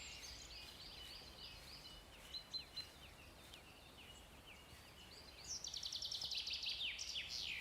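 Faint chorus of small songbirds: short chirps and calls overlapping, with a quick trilled song over the last couple of seconds.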